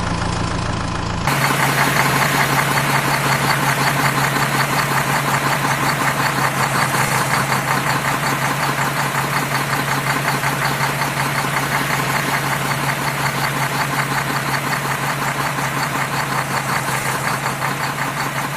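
A vehicle engine running steadily with a fast, even chug. About a second in it changes to a louder, brighter engine sound that keeps the same rapid pulsing.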